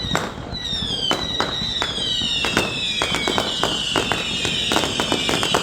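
Aerial fireworks: several high whistles overlap and slowly fall in pitch, under a quick run of sharp bangs and cracks.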